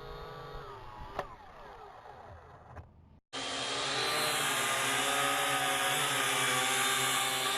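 Syma X8HG quadcopter's electric motors and propellers whining, their pitch gliding up and down as the drone manoeuvres. About three seconds in the sound drops out for an instant, then the motor whine comes back much louder and steady.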